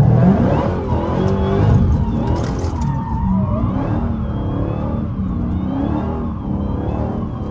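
Straight-piped Dodge Challenger Hellcat's supercharged 6.2-litre Hemi V8 revving hard under throttle, surging loudest right at the start, then its pitch rising and falling repeatedly, with the supercharger whine following the revs.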